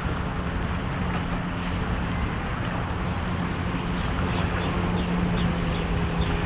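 Evinrude E-TEC 225 HP V6 two-stroke outboard running steadily with the boat under way, a constant drone under the rush of water past the hull and wind on the microphone.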